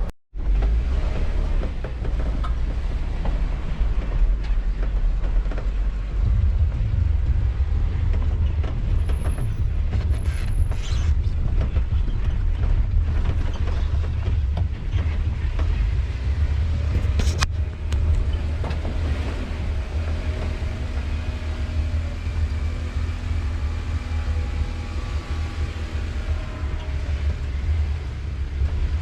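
Off-road 4x4 crawling over rock: a steady low engine and drivetrain rumble, with creaks and knocks from the suspension and body.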